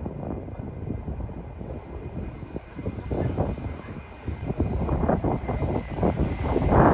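Airliner engine noise as a plane passes: a rough, crackling rumble that grows louder over the last couple of seconds.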